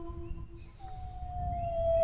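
Dog howling: one howl trails off at the start, and after a short pause a new, higher howl begins just under a second in and slowly slides down in pitch. A low rumble sits underneath.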